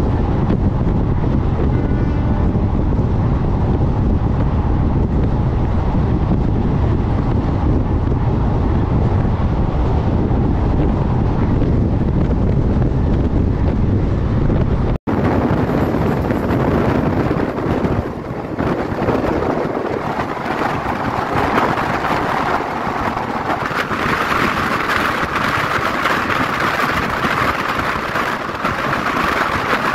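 Passenger train running at speed, heard from on board: a steady rumble of wheels and coach. About halfway there is a sudden cut to another stretch of running, brighter and rushing, with wind on the microphone.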